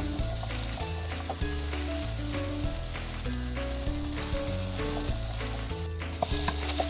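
Cucumber and egg sizzling steadily in a frying pan as they are stir-fried. A simple background tune runs over it.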